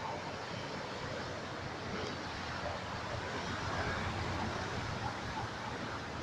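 Steady rushing noise with a low rumble, a little louder in the middle, like vehicle noise.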